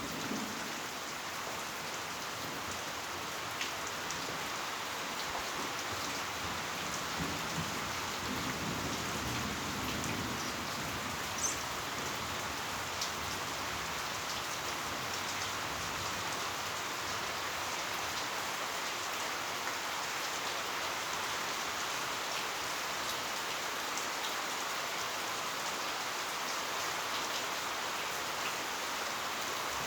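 Heavy rain falling steadily, with scattered drop ticks and a faint low rumble around eight seconds in.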